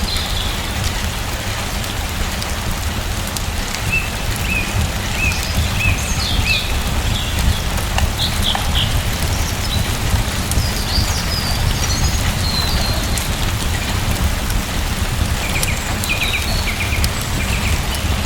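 Steady rain falling, with a small bird chirping in short runs of quick notes several times.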